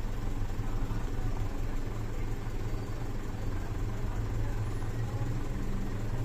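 Mitsubishi Fuso Canter's 4P10 four-cylinder turbo-diesel engine idling steadily.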